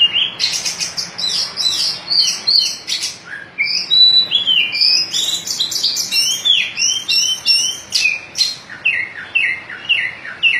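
White-breasted Oriental magpie-robin (kacer dada putih) singing a rapid, varied song of chirps and clear whistles, with a run of downward-slurred whistles in the second half.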